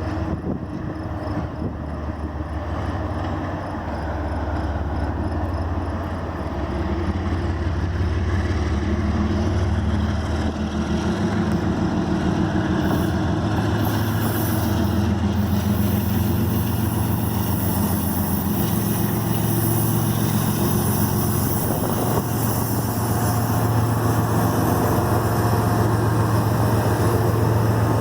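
Union Pacific intermodal freight train rolling past, a steady low rumble of the train on the rails that gradually grows louder.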